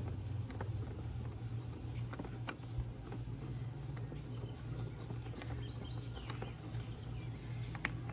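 Insects shrilling steadily outdoors over a low steady hum, with scattered small clicks.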